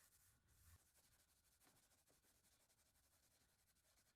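Near silence: faint hiss of room tone.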